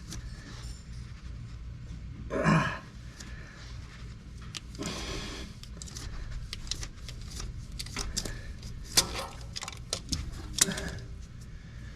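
Scattered light clicks and clinks of tools and parts being handled, with a louder scrape about two and a half seconds in, over a steady low hum.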